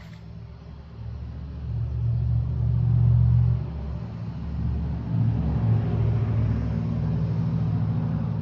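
An engine running with a low rumble, revving up about a second in, easing off briefly just before the middle, then revving again.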